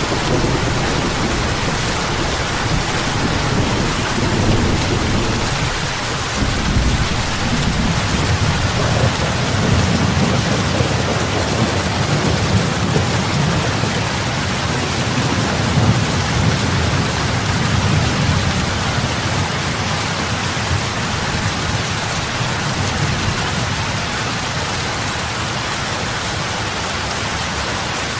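Heavy rain falling on lake water, a steady dense patter and hiss. A low rumble swells and fades under it through the middle.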